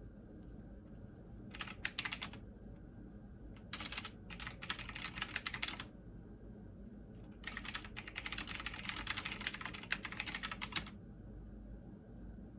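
Typing on a computer keyboard in three bursts of rapid key clicks, the last the longest, with short pauses between.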